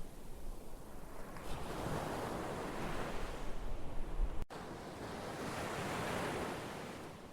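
Ocean waves washing on a shore, the surf swelling and easing twice, with a sudden momentary break in the sound about four and a half seconds in.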